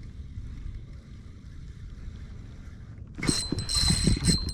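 Spinning fishing reel being cranked fast, a steady high whine with irregular rattling knocks, starting suddenly about three seconds in as a hooked fish is reeled up; before that only a faint low rumble.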